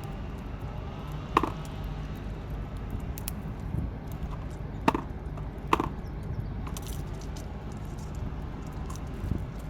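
Three sharp woody cracks or knocks, about one and a half, five and six seconds in, with fainter ticks between, over a steady low rumble.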